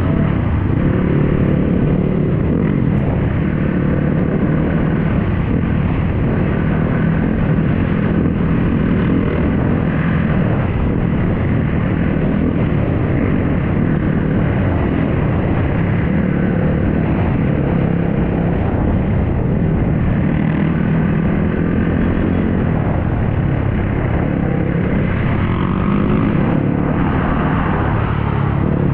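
Dirt bike engine running steadily while riding, its pitch shifting slightly over a constant rumble.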